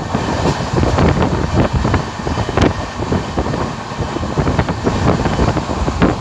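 Moving train heard from an open door or window: a steady rumble with irregular clicks and knocks of the wheels on the rails, and wind buffeting the microphone.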